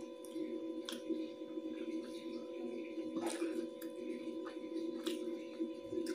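Close-up eating sounds of someone chewing rice by hand: a handful of short wet mouth clicks and smacks, over a steady hum of several held tones.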